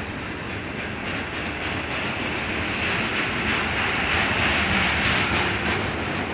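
Freight train passing, its flatcars loaded with stacked steel rails rolling by: a steady, even noise of steel wheels on the rails.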